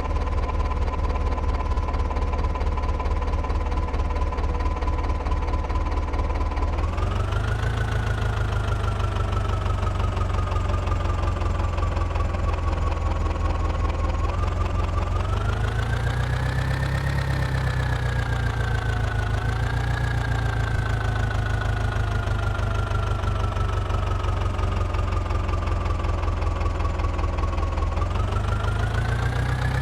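Mahindra tractor's diesel engine running, its pitch rising sharply several times and sagging slowly in between.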